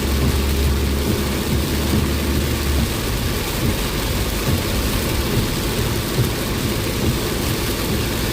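Heavy rain beating on a moving car, mixed with engine and road noise as heard from inside the cabin. A steady low hum in the mix drops away about three seconds in.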